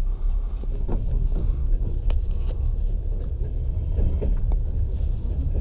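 Passenger train carriage rumbling along at speed, with the wheels knocking over the rails now and then and a sharp clack about two seconds in.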